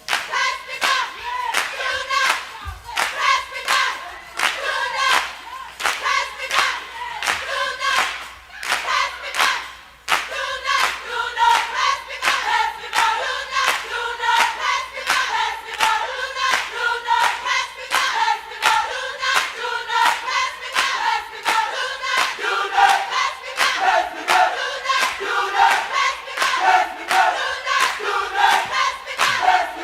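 A large flock of birds calling all at once: a dense, continuous chatter of many overlapping short chirps and whistles.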